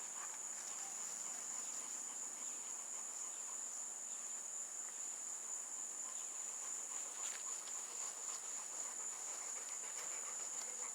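Steady, high-pitched insect chorus that holds the same pitch without a break.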